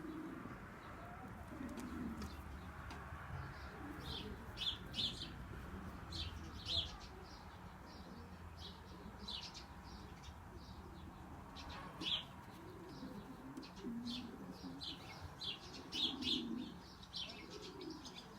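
Pigeons cooing in low, repeated phrases, with short high chirps scattered all through.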